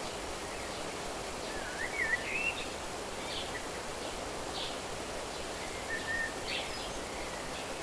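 Steady outdoor nature ambience, a soft even rustle like wind in leaves, with scattered short bird chirps and a wavering whistled bird phrase about two seconds in.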